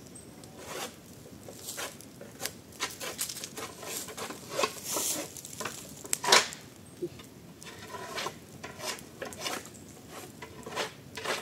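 Irregular clicks, knocks and scraping of objects being handled and shifted by hand, with rustling in between and a louder knock about six seconds in.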